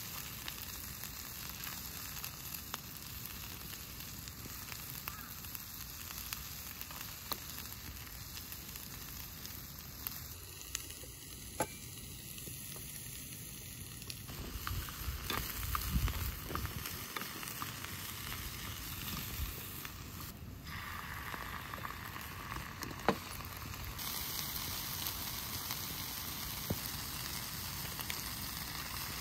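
Food sizzling on a hot camp griddle: a steady frying hiss with scattered sharp pops, and a low rumble of handling about halfway through.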